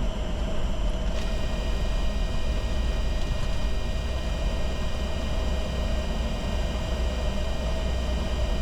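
Steady cockpit noise of a Bombardier Challenger 605 in descent: airflow and engine hum with a strong deep rumble and a few faint, steady high whines. A faint extra whine joins about a second in.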